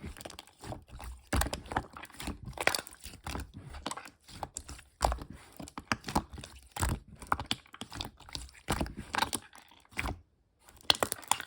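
Irregular crunching and crinkling handling noises: quick clusters of sharp crackles and pops with short pauses between them.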